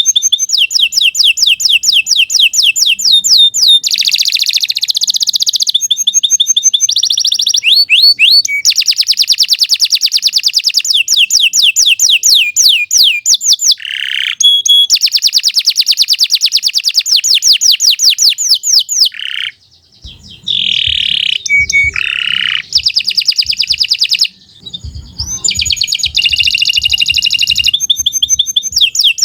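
Domestic canary singing a long, unbroken song of fast repeated trills, one run of quick high notes following another, with short breaks about twenty and twenty-four seconds in.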